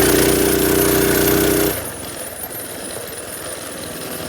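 Small minibike engine running: loud and held up for the first couple of seconds, then dropping back to a steady lower run.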